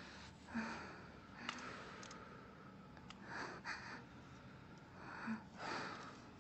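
A woman's quiet, ragged breathing: a few heavy breaths and sniffs, one every second or two.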